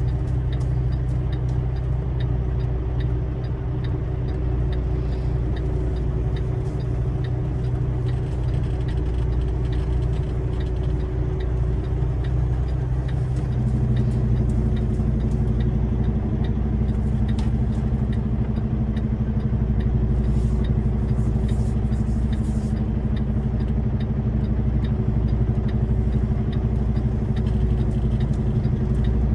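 Semi truck's diesel engine running slowly with light clicks and rattles while the tractor-trailer is maneuvered at a loading dock. About halfway through, a new steady hum joins and the engine gets slightly louder.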